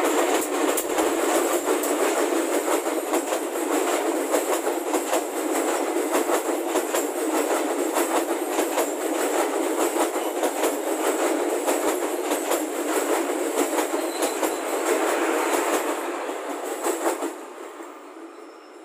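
Passenger train hauled by a CC 203 diesel-electric locomotive passing close by, its wheels clattering with a rapid run of clicks over the rail joints. The sound fades away about 17 seconds in as the last coach moves off.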